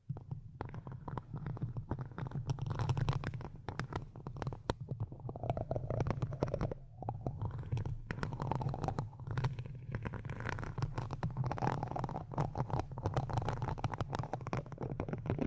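Close-miked ASMR scratching and rubbing: a dense, irregular crackle of small scratches over a steady low rumble.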